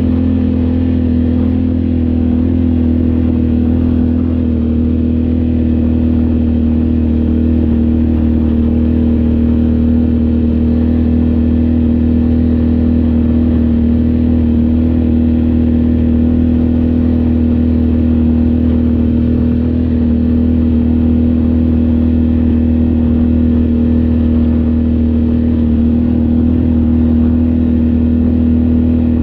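Off-road vehicle engine running at steady revs, a constant drone with no rise or fall in pitch.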